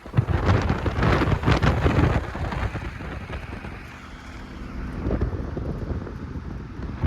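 Wind buffeting the microphone, loudest and roughest over the first two seconds, over a low steady hum of a running vehicle engine.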